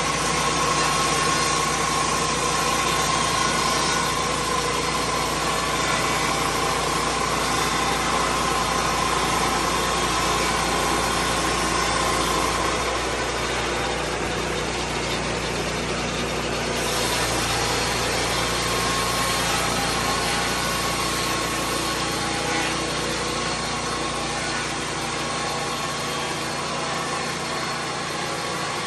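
Lucas Mill 10-30 swing blade sawmill running continuously, its engine steady under a loud, even rush of noise from the spinning blade. The sound shifts slightly about halfway through.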